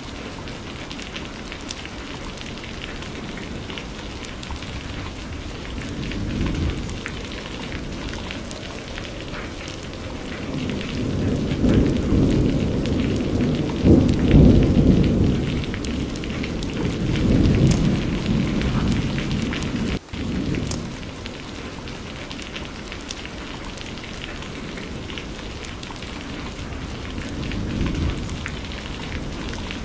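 Steady rain with rolling thunder, one long rumble building through the middle and fading away, and a momentary gap in the sound about two-thirds of the way through.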